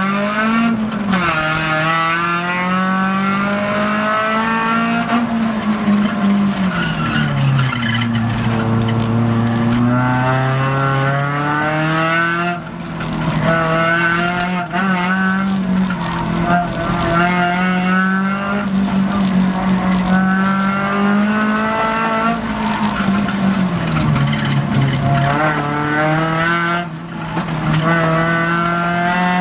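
Mazda Miata's four-cylinder engine working hard through an autocross run, heard from inside the open cockpit. Its pitch climbs and falls as the driver accelerates and brakes between the cones, with short lifts off the throttle about a third of the way in and near the end.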